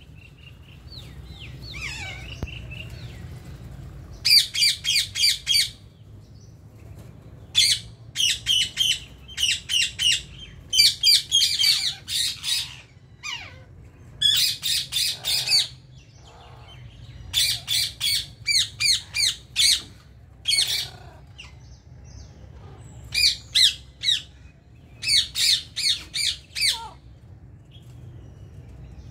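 Indian ring-necked parakeets squawking: repeated bursts of quick, harsh, high-pitched calls, each burst a rapid run of several notes, coming again and again with short pauses between.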